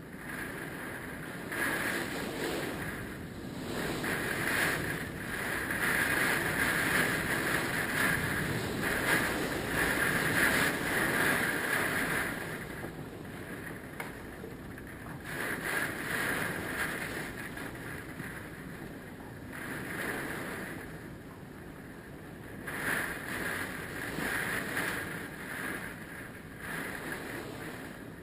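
Hurricane-force wind gusting, swelling and easing in waves of noise, with the strongest gust lasting about ten seconds near the start.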